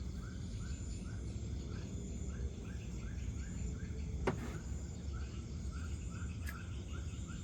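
Night insect calling in a steady, regular chirp, about three chirps a second, over a low background rumble, with a faint click about four seconds in and another near the end.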